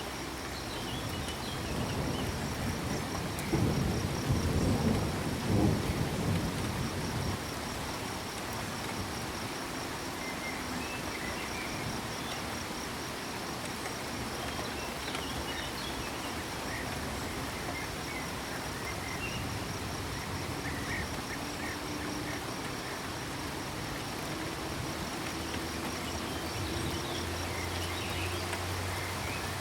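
Steady rain with a low rumble of thunder a few seconds in, under a constant pulsing cricket trill and scattered frog calls.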